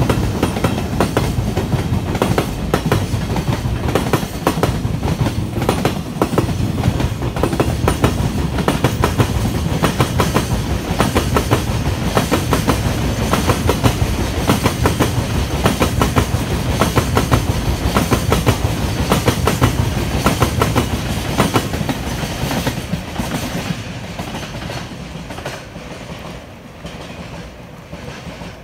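Freight train of tank wagons behind an EH200 electric locomotive rolling past, wheels clacking rapidly and continuously over rail joints. The sound fades away over the last six seconds or so as the train recedes.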